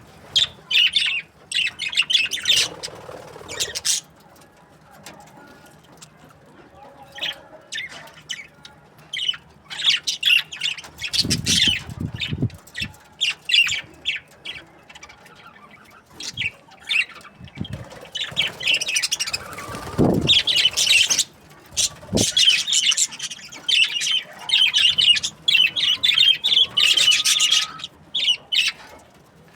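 Budgerigars chattering and chirping in quick bursts of short, high calls, with wing flutters among them.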